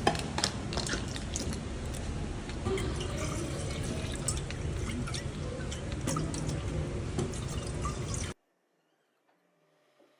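Running water with many small splashing drips, steady until it cuts off suddenly about eight seconds in.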